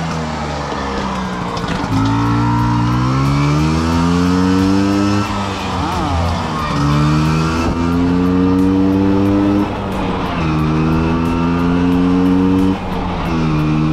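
Vespa V50 two-stroke engine under way, its pitch rising through each gear and dropping at each shift, several times over. It is running leaner with the air-filter plug pulled, because it was too rich before.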